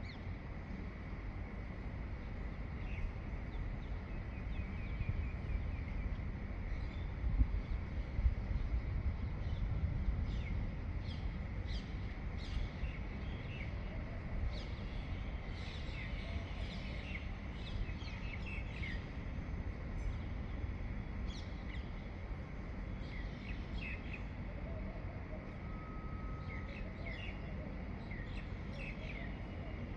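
Several birds chirping and calling in short, scattered notes, busiest in the middle and last third, over a steady low rumble of background noise.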